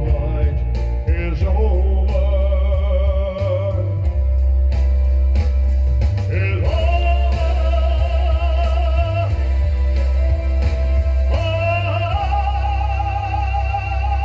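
Live music: a male singer holds long notes with a wide vibrato over a backing track with heavy bass. The held notes step up higher twice.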